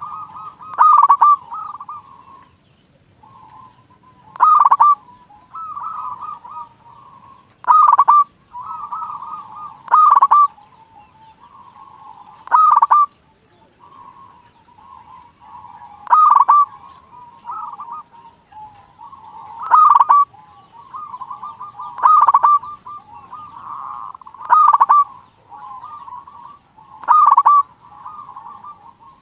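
Zebra doves (local perkutut) cooing. A loud call repeats about every two to three seconds, with softer cooing in between.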